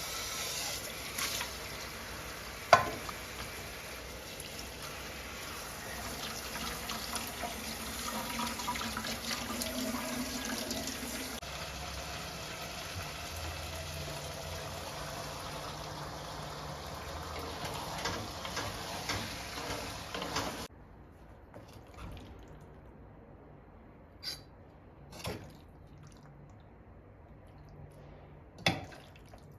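Water running from a kitchen tap into a sink, with a sharp knock about three seconds in. The water stops about two-thirds of the way through, and a few light clicks and knocks follow.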